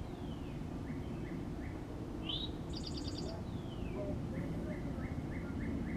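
Small birds chirping and calling: a couple of high falling whistles, a short fast trill about halfway through, and a run of quick, evenly spaced chirps in the second half, over a steady low background rumble.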